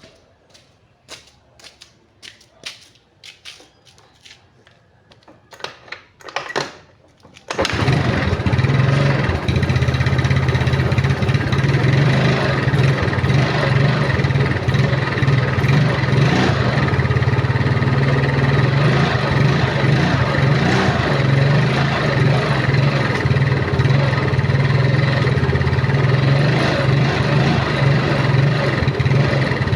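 A series of clicks and knocks, then a small engine starts abruptly about a quarter of the way in and runs steadily with a low hum.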